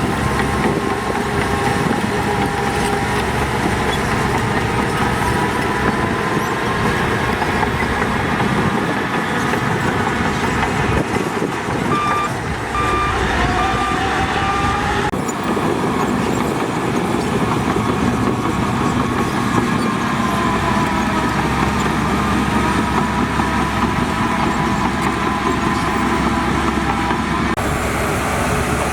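Diesel engines of a bulldozer and dump trucks running steadily under load. A backup alarm beeps a few times about twelve seconds in.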